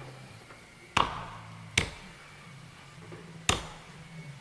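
Axe chopping into a tree trunk: three sharp strikes at uneven spacing, each with a brief ringing tail.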